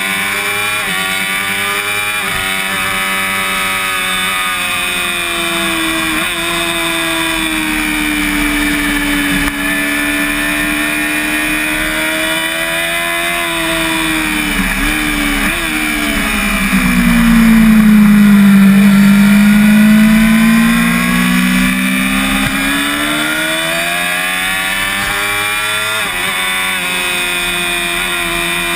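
Onboard sound of a Yamaha YZF-R6 (5EB) inline-four engine at racing speed, its revs rising and falling through the gears and corners, with wind rush over the bike. It grows louder and lower in pitch for a few seconds past the middle.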